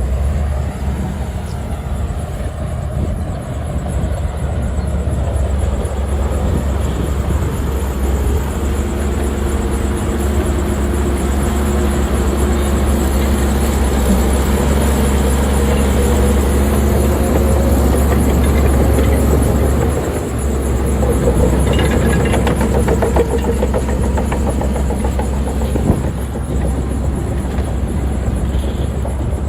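Heavy diesel earthmoving machinery working: a deep, steady engine rumble whose note rises and falls as the engine is loaded, with some clanking.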